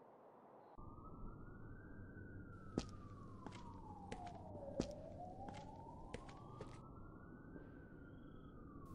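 A distant siren wailing slowly, its pitch rising, sinking and rising again over several seconds, over a low steady background hum that starts about a second in. A few sharp clicks come through, the clearest about three and five seconds in.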